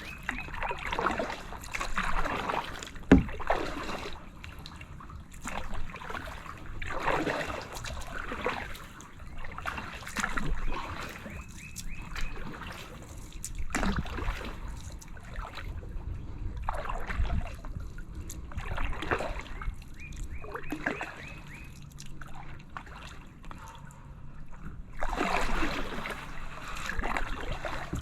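Kayak paddle strokes in calm water: the blade dipping and water trickling off it, repeating every second or two, with a sharp knock about three seconds in.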